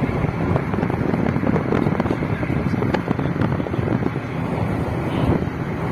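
Steady rumble of a moving vehicle with wind buffeting the microphone, crackling irregularly.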